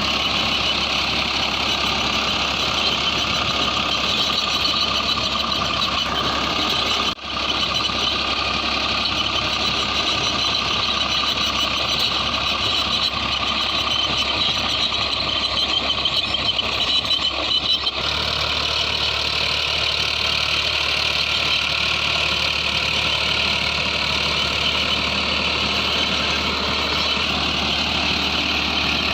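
Farmtrac 60 PowerMaxx T20 tractor's diesel engine running steadily under load while driving an 8-foot rotavator in second low gear, holding its speed with only about a 100 rpm drop. The sound drops out briefly about seven seconds in and changes character abruptly about eighteen seconds in.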